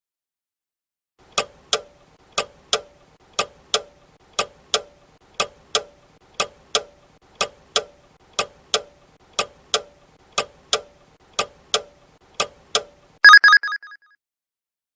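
Quiz countdown-timer sound effect: a clock ticking in quick double ticks, one pair a second, twelve times. A short bright alarm-bell ring near the end signals that the answer time is up.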